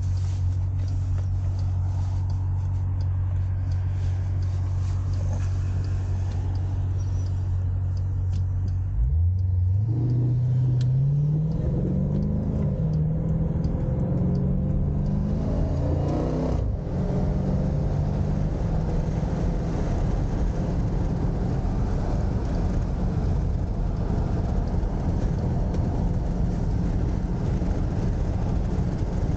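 2022 Dodge Durango SRT 392's 6.4-litre HEMI V8 running at a steady low hum. About nine seconds in it is put under hard throttle: the engine note jumps louder and climbs steeply, stepping up through gear changes. About seventeen seconds in it drops back to a steadier cruise.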